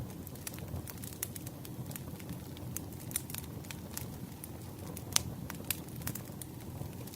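Campfire crackling: a steady low rumble of burning wood with irregular sharp pops and snaps, the loudest pop about five seconds in.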